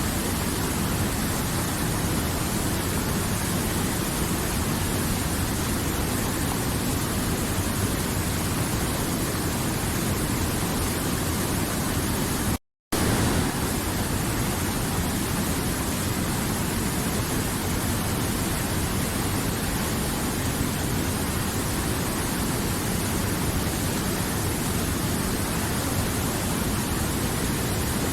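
River water flowing, a steady rushing noise. It cuts out completely for a split second about thirteen seconds in, then carries on unchanged.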